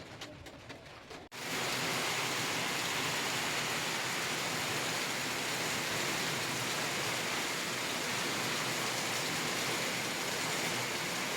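Heavy rain falling steadily, a dense even hiss that comes in abruptly about a second in.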